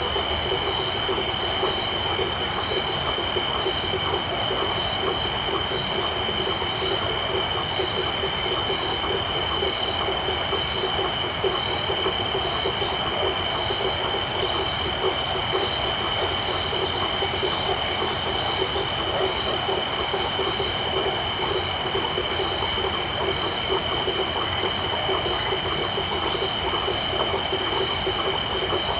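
Night chorus of crickets and frogs: a steady high trill with faster pulsing insect calls above it, over a dense, rapidly pulsing frog chorus lower down.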